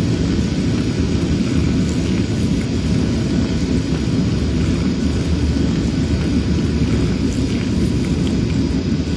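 Steady low rumble of running machinery, even in level throughout, with faint steady tones above it.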